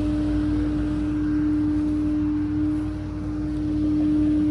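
A vehicle running steadily, giving a constant droning hum over a low rumble.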